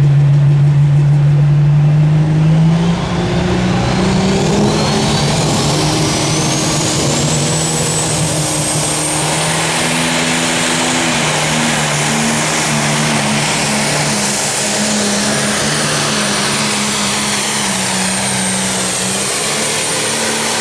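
Pro Stock pulling tractor's turbocharged diesel engine at full power during a pull, with a high turbo whistle that climbs over the first several seconds and then holds steady at a high pitch.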